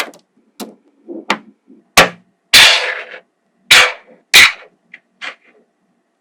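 Small magnetic balls snapping together in a string of sharp clicks, about eight in all, with one longer rattling clatter about two and a half seconds in.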